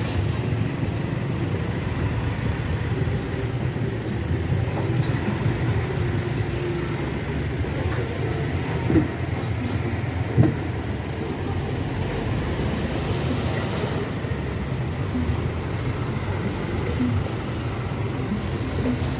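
Heavy trucks rumbling past on a road with a steady low engine and road noise. Near the middle come two brief thumps about a second and a half apart.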